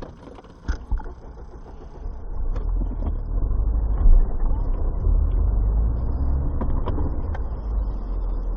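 Car driving, heard through a dash camera's microphone: a steady low rumble of engine and road noise that grows louder about two seconds in, with a few short knocks, the sharpest about four seconds in.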